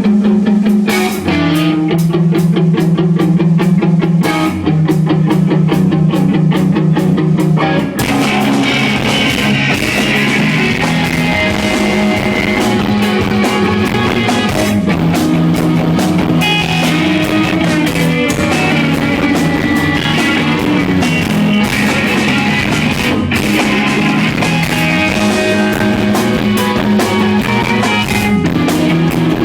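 A rock band playing live, with electric guitars and a drum kit. The song starts with guitars and lighter drumming, and the full band comes in with a fuller sound about eight seconds in.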